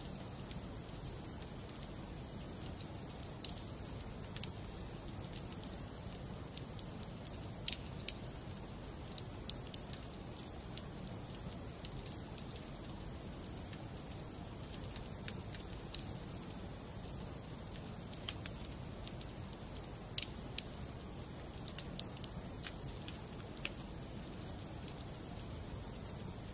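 Wood fire in a fireplace crackling: irregular sharp pops and snaps, several a second, over a steady low rush of the burning logs.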